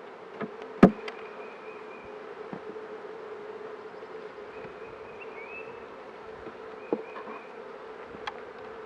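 Honey bee colony buzzing steadily in an opened hive during a frame inspection. A few short sharp knocks cut through it, the loudest about a second in.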